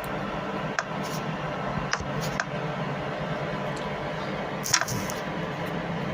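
Steady background hum and hiss with a few short, sharp clicks scattered through it, the loudest a little before the end.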